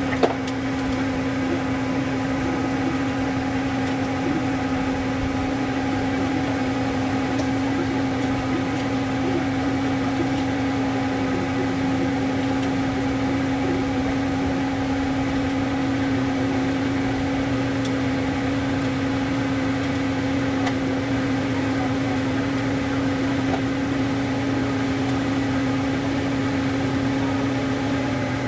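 Steady, unchanging machine hum with a constant pitch, with a single click right at the start.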